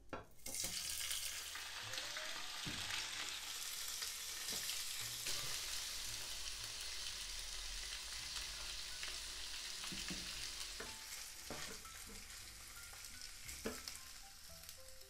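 Seitan steaks sizzling in hot oil in a nonstick frying pan, the sizzle starting abruptly about half a second in as a steak goes into the pan. Scattered short taps and scrapes of a spatula against the pan.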